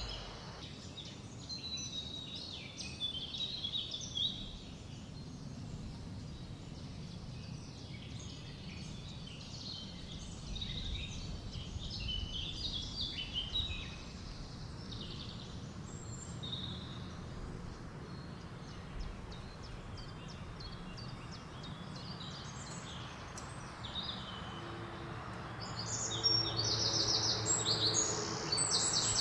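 Several birds chirping and singing over a low, steady rush of wind. A louder, rapid trill comes in near the end.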